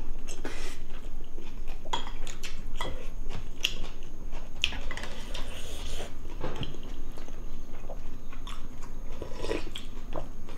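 Close-miked eating: chewing and mouth smacking on food, with scattered light clicks of a metal spoon and chopsticks against ceramic bowls.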